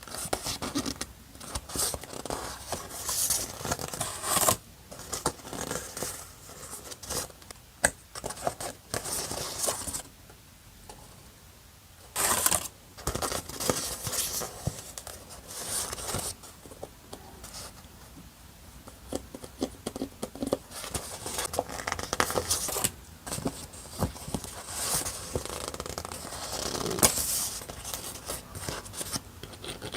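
Paper and stickers being handled for journal scrapbooking: irregular rustling, peeling, crinkling and scraping, with light taps and a few quieter pauses.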